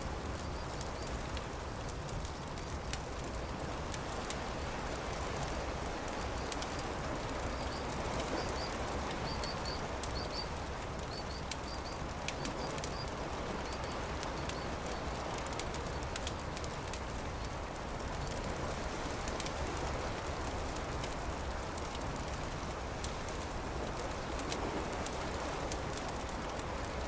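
Campfire crackling with scattered sharp pops over a steady wash of noise. A few short, high bird chirps come about eight to eleven seconds in.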